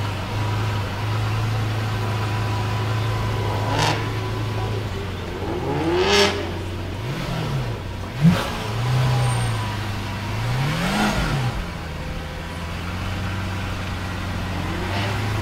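Car engines: a steady low engine rumble underneath, with several engines rising and falling in pitch as they rev or drive past, about four, six, seven-and-a-half and eleven seconds in. A short, sharp loud burst comes about eight seconds in.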